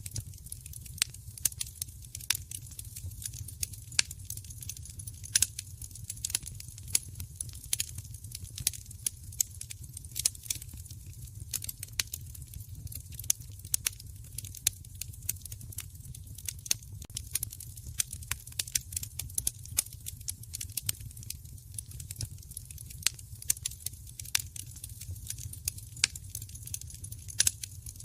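Wood fire crackling, with sharp pops and snaps at irregular intervals over a steady low rumble of the flames.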